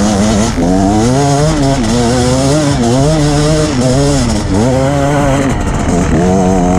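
Two-stroke engine of a KTM 250 EXC dirt bike running under a constantly worked throttle, its pitch rising and falling over and over as the rider blips and eases off on the hill.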